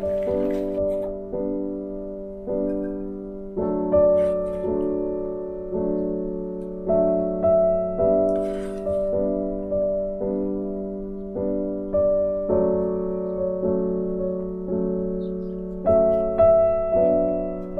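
Background piano music, a slow, gentle tune of notes struck at an even pace, each fading before the next.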